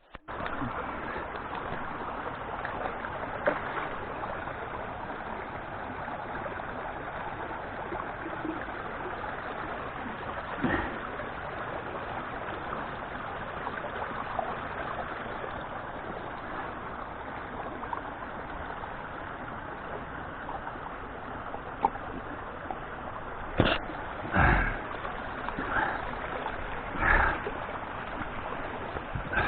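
Mountain stream rushing steadily. Near the end, a few short thumps sound close by over the water.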